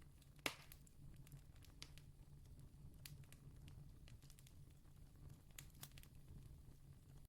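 Faint campfire crackling: scattered small pops and snaps of burning wood, one sharper pop about half a second in, over a low steady rumble.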